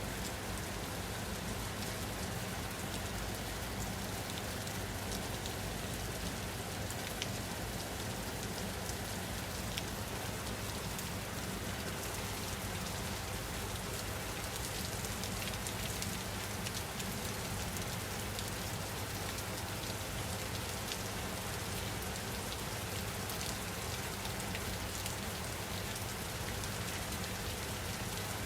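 Steady rain falling on a surface, with the patter of individual drops over a constant hiss.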